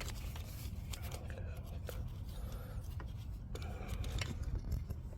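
Zip ties being cut off with cutters: scattered small clicks and snips over a steady low hum.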